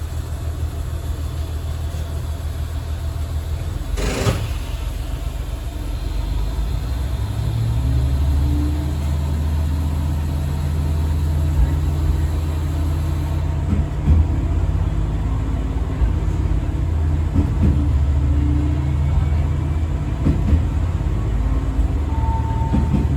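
Diesel railcar running, heard from beside the driver's cab: a steady low engine and running rumble that grows stronger about eight seconds in, with a sharp knock about four seconds in and a few lighter knocks after.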